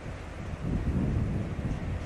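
Wind buffeting the microphone over the low rumble of an approaching train, swelling about halfway through.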